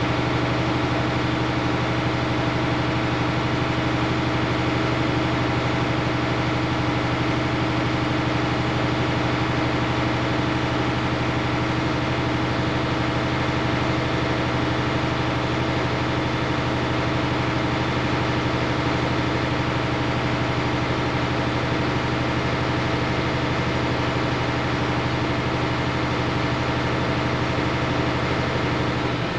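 International DT466 inline-six diesel engine idling steadily with an even hum, while the newly fitted air compressor builds air pressure toward its 120 psi cut-out.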